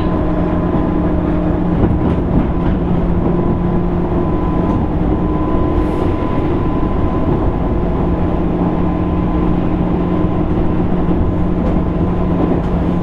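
Interior running sound of a JR East 205 series 600 electric commuter train, heard from inside motor car MoHa 204-604: a steady rumble of wheels on rail with a constant motor and gear hum.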